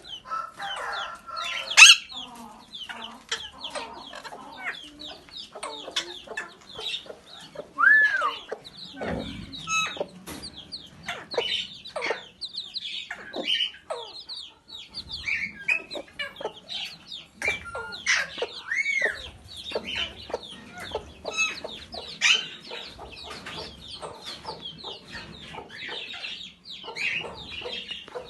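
Chickens clucking among many short, sharp bird calls and squawks, dense and overlapping, with a louder squawk about two seconds in.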